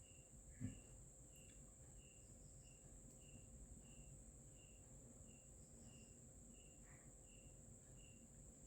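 Near silence with a cricket chirping faintly and evenly, about three chirps every two seconds; a brief soft low sound about half a second in.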